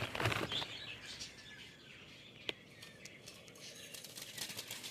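Faint bird chirps, with a single sharp click about two and a half seconds in.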